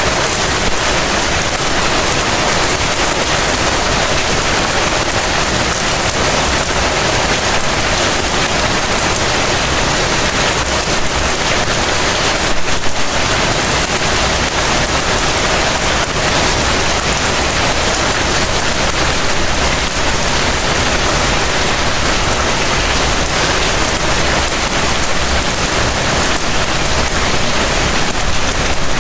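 Heavy rain falling steadily, an even wash of dense rainfall.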